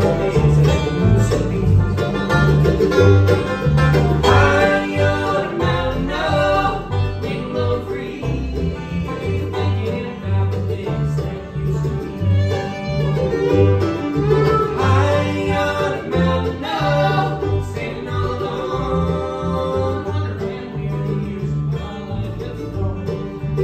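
A bluegrass band playing, with banjo and guitar to the fore over a steady, rhythmic bass line and a melody line that enters about four seconds in.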